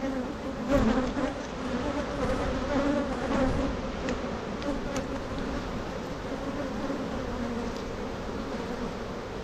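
Swarm of agitated honeybees buzzing loudly around an open hive, a dense droning hum that wavers as bees fly past, the sign of a colony disturbed after one of its frames was dropped.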